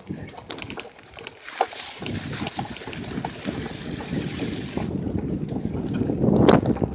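Riding noise from a bicycle on a rough road: wind buffeting the microphone and the tyres and frame rattling. There are scattered clicks, then a steady hiss for about three seconds, and the rattling rumble grows louder near the end.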